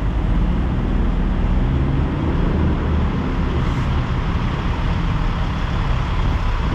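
Heavy trucks' diesel engines running, a steady low rumble with no sharp events.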